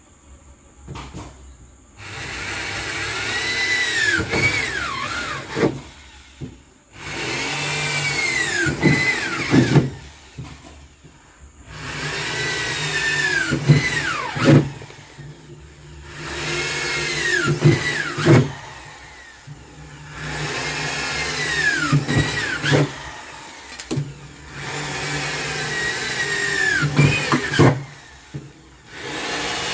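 Electric drill boring holes in a freezer's shell, run in about seven bursts of a few seconds each. The motor's pitch drops away at the end of every burst.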